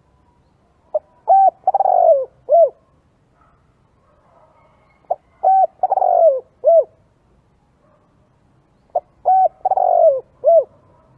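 Spotted dove cooing its song three times, about four seconds apart. Each phrase is a brief note, two short coos, a longer falling coo and a short final coo.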